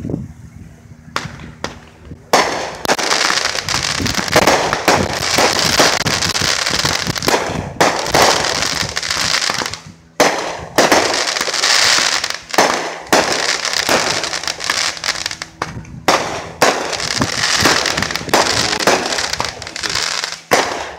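Fireworks going off: a dense, rapid run of sharp bangs and crackling that starts about two seconds in and keeps going, with a few short breaks.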